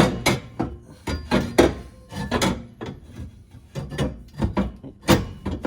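Repeated irregular knocks and bangs, several a second, from exhaust parts being worked into place.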